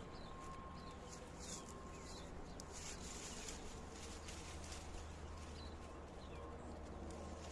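Quiet outdoor ambience with a low steady hum and a few faint, scattered short chirps from small birds.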